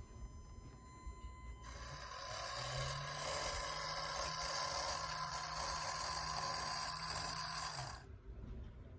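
A small electric motor of a Kyosho Mini-Z RC car runs steadily with a high hiss and whine. It starts about two seconds in, builds, holds for about six seconds and cuts off suddenly.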